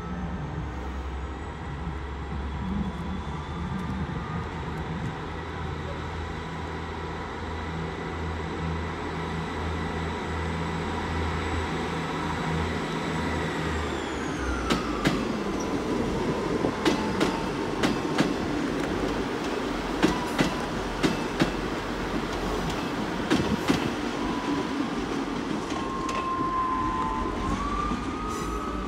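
Diesel multiple unit pulling out of the station: its engine hum and a steady transmission whine that falls in pitch about halfway through, then a string of sharp wheel clicks over rail joints and points. A tone rises near the end.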